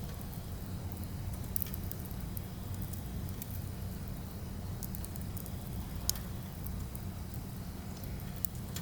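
Firewood burning: a steady low rumble with sparse crackles and pops, a sharper pop about six seconds in.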